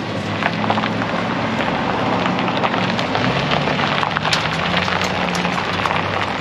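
Vehicle engine running with a low hum that rises in pitch about halfway through, under dense crackling and ticking.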